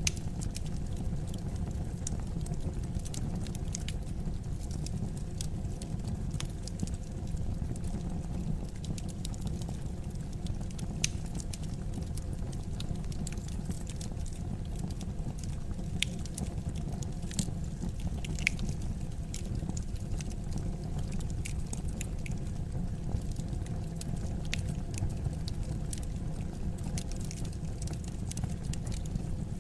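Wood fire crackling: irregular sharp pops and snaps over a steady low rumble of the flames, with a few louder pops in the middle.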